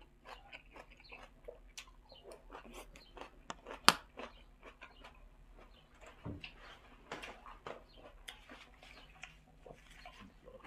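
A person chewing and crunching a spicy pork sai tan salad with fresh vegetables, with many small irregular crackles and mouth clicks. One sharp, much louder click comes about four seconds in.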